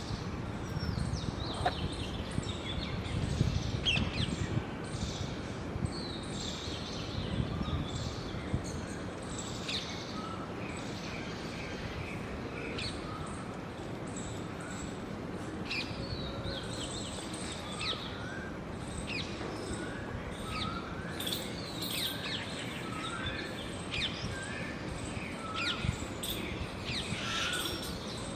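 Several small birds chirping and calling, with one short rising note repeated about every second through the second half, over a low background rumble.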